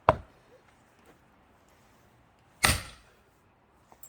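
Sledgehammer striking the backs of two axes driven into a thick pine log, hitting them in turn to split it: two sharp blows about two and a half seconds apart, the second ringing on a little longer.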